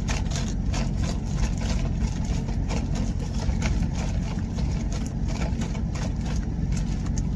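A closed bag of chicken wings being shaken to coat them in Parmesan and parsley, a quick irregular rustling and shuffling, stopping right at the end. Under it a truck engine idles steadily.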